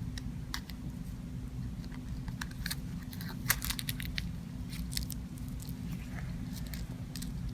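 Scattered faint crackles and clicks from handling the drainage bulb holder, its hook-and-loop tabs and plastic drainage bulbs, with one sharper click about three and a half seconds in, over a steady low hum.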